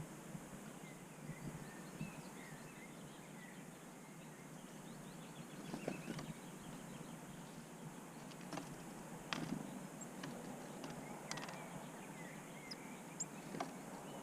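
Faint chirps and short high calls of small birds over a steady outdoor background noise, with several sharp clicks or taps a second or two apart in the middle and later part.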